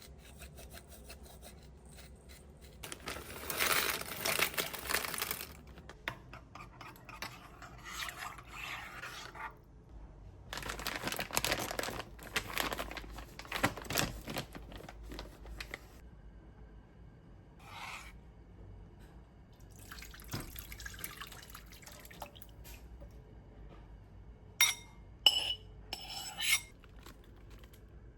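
Kitchen work sounds: several spells of running or pouring water, a few seconds each, then a few sharp clinks of dishes near the end.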